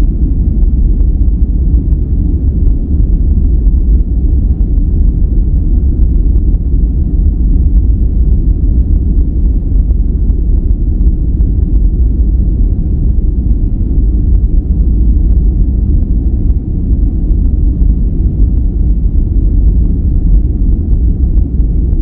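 Steady, unchanging noise track, deep and rumbling, weighted heavily to the low end with little hiss on top. It is sold as white noise but sounds closer to a brown-noise rumble.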